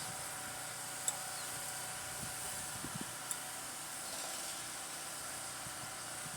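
Steady background hiss with two faint clicks, one about a second in and one about three seconds in.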